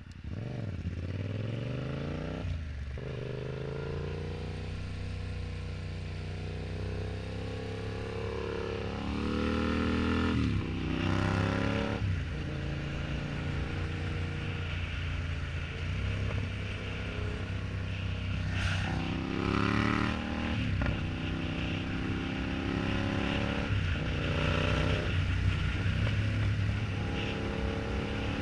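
Yamaha MT-07's parallel-twin engine pulling under acceleration while riding, its pitch climbing through the revs and dropping sharply at each upshift, several times over.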